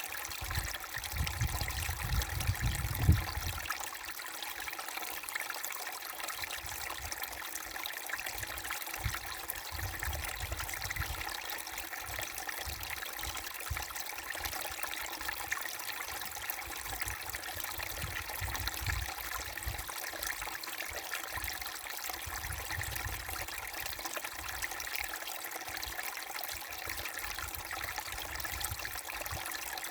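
Small brook babbling and trickling steadily over stones. A low rumble in the first few seconds ends in a short knock about three seconds in.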